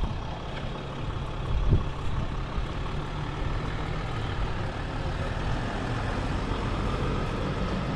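Steady engine and road noise of a moving vehicle, with a brief knock a little under two seconds in.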